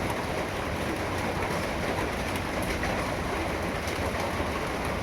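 Steady rain falling, an even hiss of rain with no breaks.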